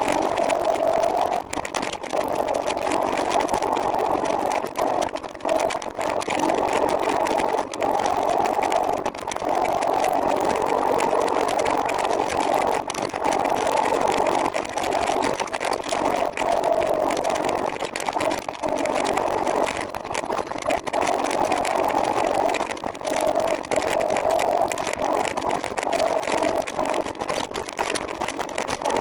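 Steady rushing road noise of a trike in motion on the road, with frequent brief dips in level.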